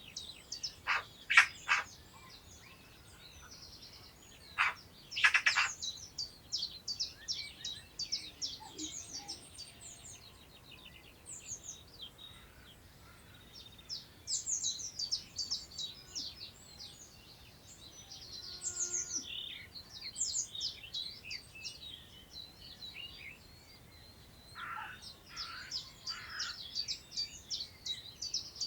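Several wild songbirds singing at once: a steady stream of rapid, high twittering notes. Louder, harsher calls come in about a second in, again around five seconds in, and near the end.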